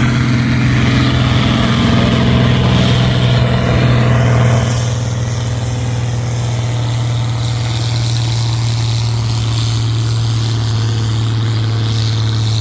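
Farm tractor engine running hard at a steady pitch while pulling the sled. It drops slightly in loudness about five seconds in, then holds steady.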